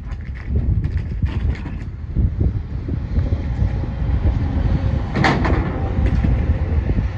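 Wind buffeting the microphone with a rough low rumble, over scattered clicks and knocks of hand work under a pickup truck, and a short hiss about five seconds in.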